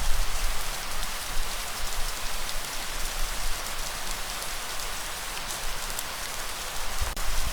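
Steady light rainfall, an even hiss of drops falling on surfaces. Under it runs a low rumble that swells just after the start and again near the end.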